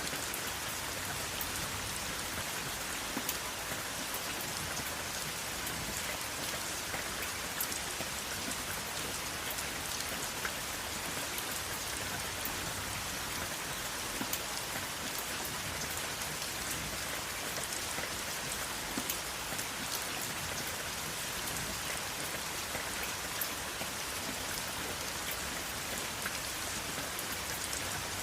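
Steady rain falling, a continuous hiss with many scattered drop ticks.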